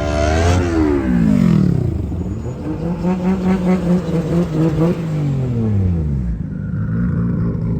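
Car engine revving hard, its pitch falling steeply in the first two seconds. It then pulses in quick bursts, about five a second, before falling away again.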